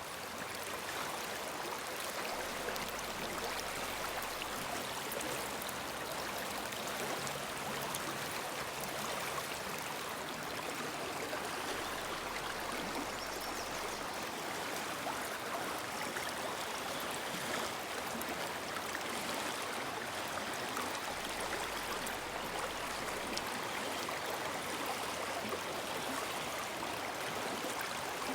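Woodland river flowing, a steady rush of running water.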